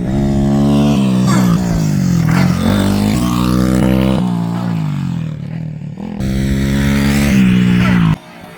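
BRZ 110cc pit bike's single-cylinder four-stroke engine being ridden, its pitch climbing and then dropping several times as the throttle is worked and gears change. The engine sound cuts off abruptly near the end.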